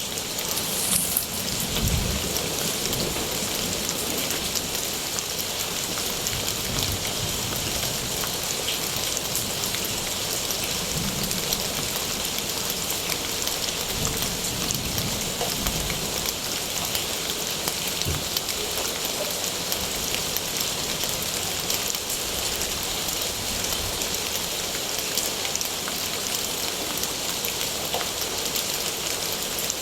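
Steady rain falling, an even hiss of drops on surfaces, with a few faint low rumbles near the start.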